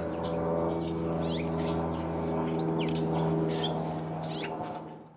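Small birds chirping over a steady low mechanical hum; both fade away near the end.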